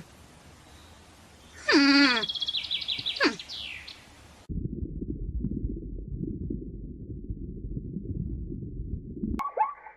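A run of different animal calls, one after another: a drawn-out call that rises and then falls in pitch about two seconds in, a low rumbling noise from about halfway, and short repeated bird calls near the end.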